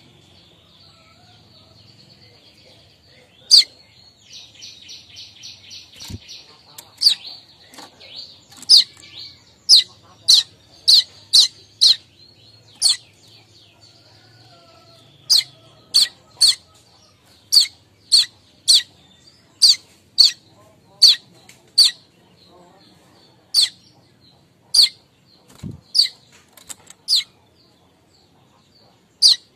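Streaked weaver calling: a long run of sharp, high chip notes, about one to two a second, with a short buzzy rattling trill about four seconds in, over a faint steady high buzz. This is the chattering "kemrecek" call used to lure the species.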